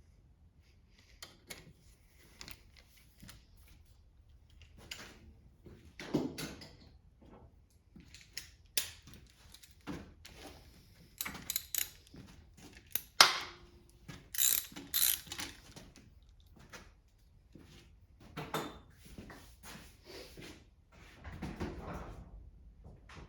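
Hand tools working on a Kohler small engine: a ratchet wrench clicking in short irregular runs as bolts are turned, with metallic clinks and knocks between them and one sharp knock about halfway through.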